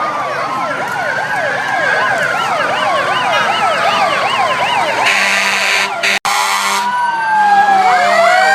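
Several emergency-vehicle sirens sounding at once and overlapping, some on a fast yelp and others on a slower rising-and-falling wail. About five seconds in, a low steady horn joins them, and near the end another siren starts winding up.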